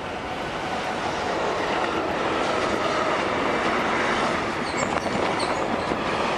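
Freight train passing through a station, a dense rolling rumble that builds over the first couple of seconds and then holds steady.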